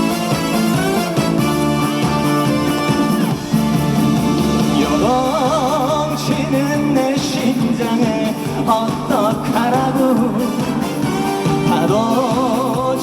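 Male trot singer performing a Korean trot song over band accompaniment. The voice comes in about five seconds in, holding notes with a wide vibrato.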